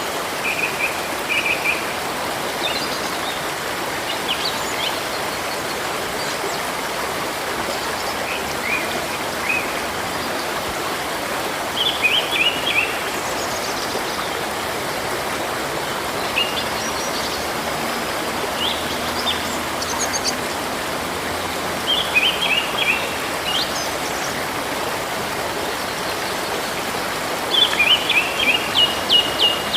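River water flowing steadily, with songbirds chirping over it. One bird repeats a short phrase of quick high notes four times, roughly every ten seconds, and single chirps fall in between.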